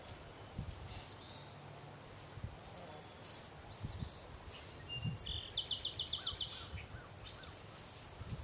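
Songbirds calling: short high chirps about a second in, a cluster of chirps a little past three seconds, then a rapid even trill of about eight notes near the middle. A steady outdoor hiss and a few soft low thumps lie underneath.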